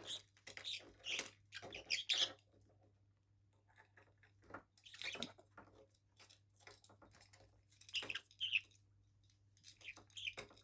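Pet parrot making short chirps and squawks in small bursts, with scattered soft clicks between them.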